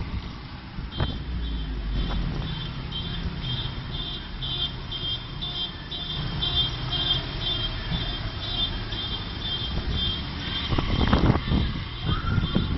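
Low rumble of a motor vehicle running, with a high electronic beep repeating about twice a second from about a second in. A few sharp knocks come near the end.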